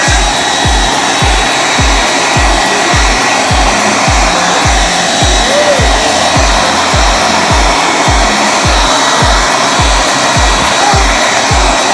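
Hair dryer blowing steadily, with music underneath carrying a heavy bass beat about two beats a second.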